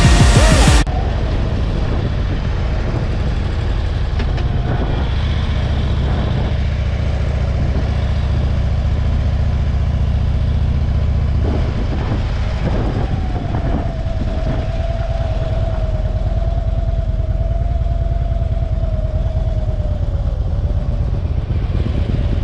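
Motorcycle engine running steadily at road speed, with wind rushing over the microphone. A music track cuts off within the first second, and a faint steady whine joins the engine about halfway through for several seconds.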